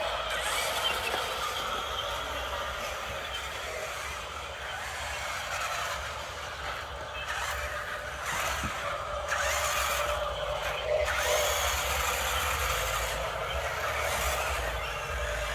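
Small electric motors and gears of radio-controlled model construction vehicles running steadily, with a few short squeaks.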